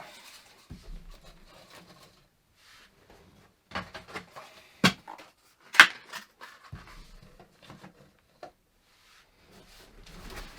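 Scattered knocks and rustling, with two sharper knocks about five and six seconds in.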